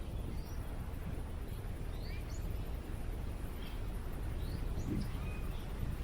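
Small birds chirping here and there in short, high, rising notes over a steady low rumble of wind.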